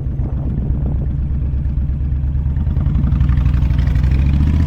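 Motorcycle engine running steadily under the rider, growing gradually louder in the second half.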